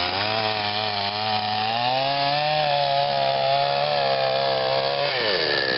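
Chainsaw engine running steadily while cutting branches, its pitch wavering slightly and then dropping about five seconds in.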